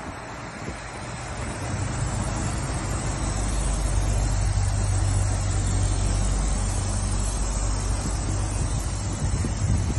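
A motor vehicle's engine running steadily under road and wind noise, getting louder over the first couple of seconds and then holding.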